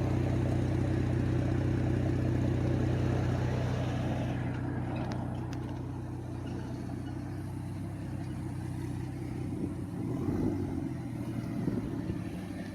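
2011 Ford Taurus SHO's twin-turbo 3.5 L EcoBoost V6 idling through a muffler-deleted exhaust, a steady low note. About four seconds in it fades to a quieter, rougher engine sound.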